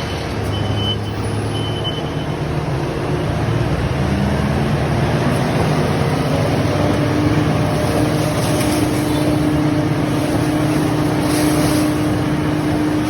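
Shred truck's engine and hydraulics running steadily while the body is raised to dump its load of shredded paper. A steady whine comes in about halfway through.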